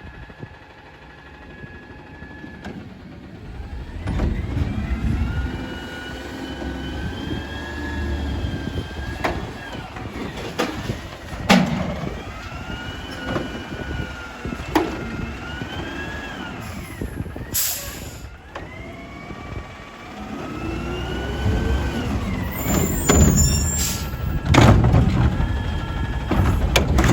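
Diesel garbage truck with a McNeilus body and Curotto-Can cart arm, its engine revving under hydraulic load with a whine that rises and falls twice. Sharp metallic knocks and bangs of the arm and cart come through it, with a short hiss of air near the middle and heavier bangs near the end.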